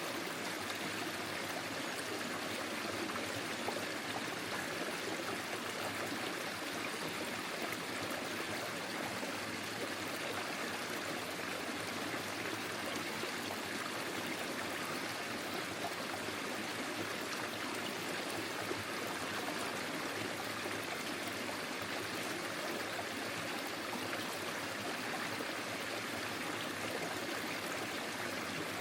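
A small forest stream flowing and trickling over stones, a steady, even rush of water.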